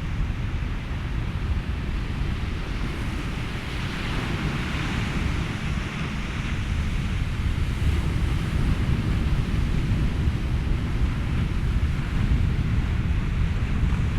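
Ocean surf and wind blended with steady white noise: a constant deep rumble under a hiss that swells, like a wave washing in, a few seconds in, then settles.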